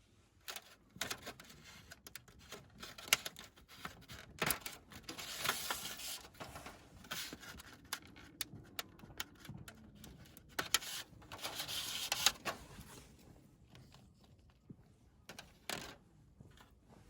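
Objects being handled at close range: a run of irregular sharp clicks and knocks, with two longer rustling, scraping stretches about five and twelve seconds in.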